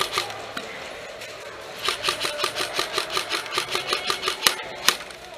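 Airsoft electric gun (AEG) firing rapid bursts: a rattle of shots that stops just after the start, a longer burst from about two seconds in, then two sharper single cracks near the end.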